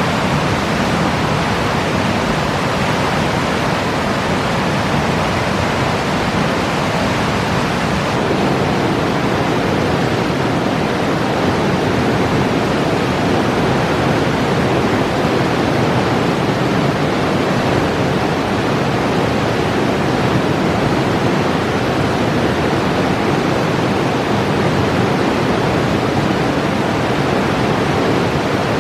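Alpine river water rushing steadily, an even, loud noise with no breaks. Its tone shifts slightly about eight seconds in.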